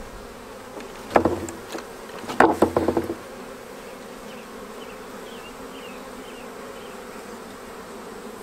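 Honeybee swarm buzzing steadily. Two quick flurries of knocks cut through it, about a second in and again around two and a half seconds in.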